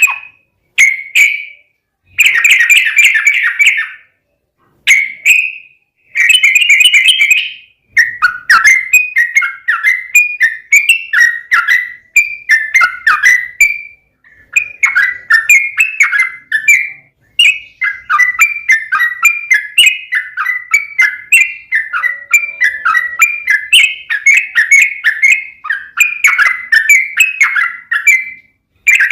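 Yellow-vented bulbul (trucukan) singing: several short bubbly phrases, then from about 8 s a long run of fast, repeated chattering notes, the 'ropel panjang' song.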